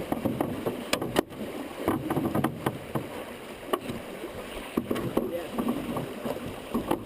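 Paddling a canoe on a creek: water swishing around the paddles and hull, with irregular sharp knocks of paddles against the boat.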